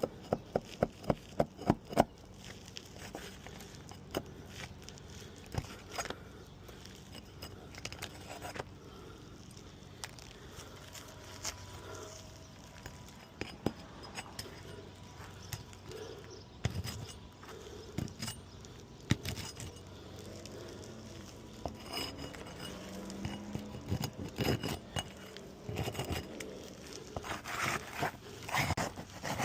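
Metal roofing tools tapping and scraping as the nails holding shingles are pried out: a quick run of sharp taps, about four a second, in the first two seconds, then scattered clicks and short scrapes, and another busy run of clicks near the end.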